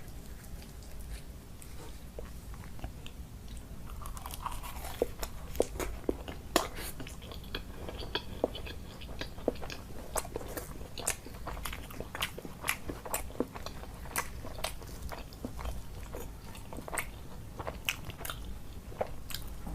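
A person chewing and biting food, with many short, sharp crunchy clicks that begin about four seconds in.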